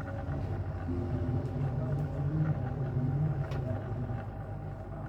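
Steady low rumble with a hum, with faint wavering tones above it.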